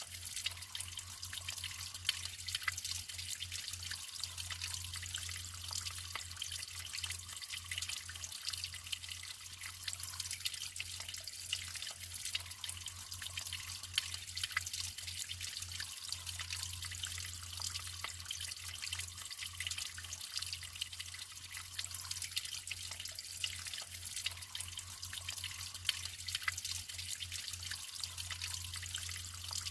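Natural flowing water trickling and splashing steadily, full of small droplet splashes, with a low steady drone underneath.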